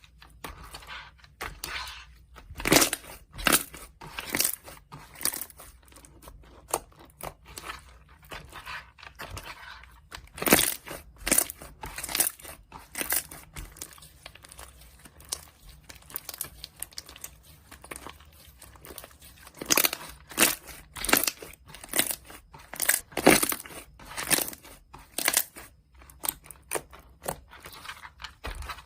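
Pink bead slime being squished and pressed, giving clusters of sharp crunchy crackles and clicks from the beads, with quieter stretches in between.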